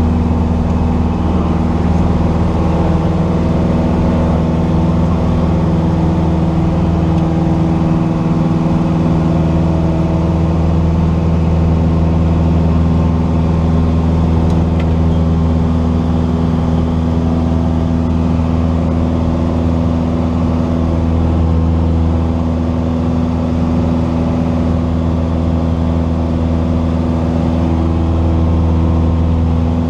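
Cessna 172's piston engine and propeller droning steadily at constant power.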